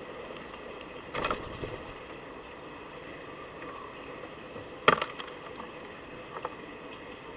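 Short knocks and clatters at a garden feeder: a quick cluster about a second in, one sharp, loudest knock near the middle, and a lighter knock later, over a steady hiss.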